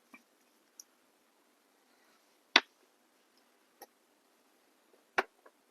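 Scattered sharp clicks and taps of small hard objects being handled while a gel top coat is got ready; the two loudest come about two and a half seconds in and near the end.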